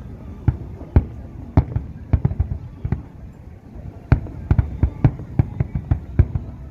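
Aerial fireworks going off in a rapid, irregular series of bangs and cracks, several a second, thinning briefly midway and then picking up again.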